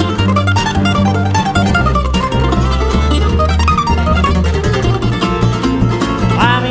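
Bluegrass band playing an instrumental break: a mandolin picks quick runs of notes over a steady bass line and strummed rhythm.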